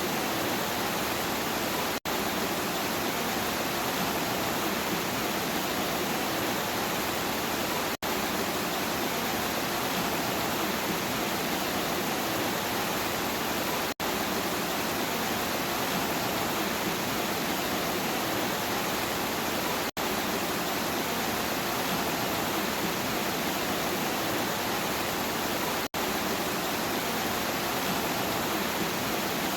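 Steady, even rainfall with no thunder, broken by a very brief drop-out in the sound about every six seconds.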